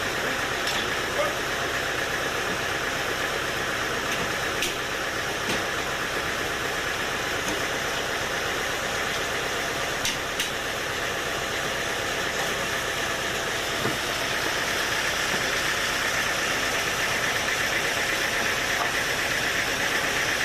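Sawmill machinery running steadily with an engine-like drone, broken by a few short sharp knocks.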